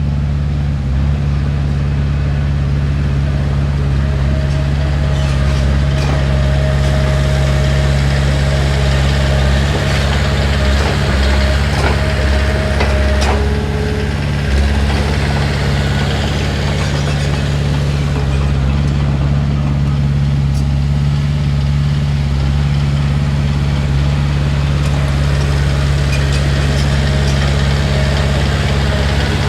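Heavy diesel engine of earthmoving equipment running steadily, with a faint thin whine for several seconds in the first half and a few light clicks.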